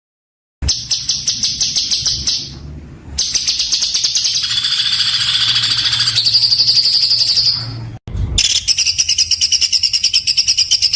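A songbird singing harsh, very rapid trills of closely packed notes, the fast 'tembakan' bursts used as training song for cage birds, in long unbroken runs with a short break about eight seconds in. The song starts just after a brief moment of silence.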